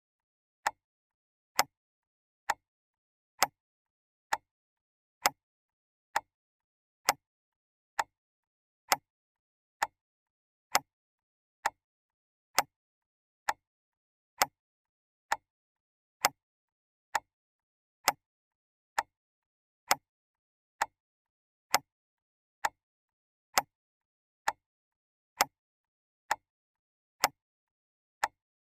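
Clock ticking steadily, one sharp tick a little less than once a second, with silence between the ticks.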